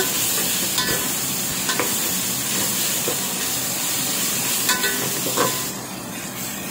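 Onion-tomato masala with ginger-garlic paste sizzling in hot oil in a metal pot while a metal spoon stirs it, scraping the pot a few times. The sizzle fades near the end.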